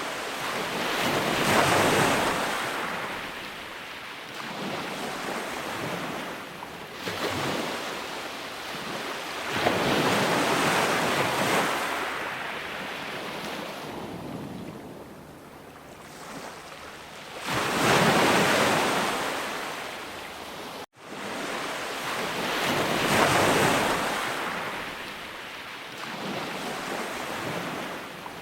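Sea waves breaking and washing in, the surf rising and falling in several large surges a few seconds apart. About three-quarters of the way through, the sound drops out for an instant and then resumes.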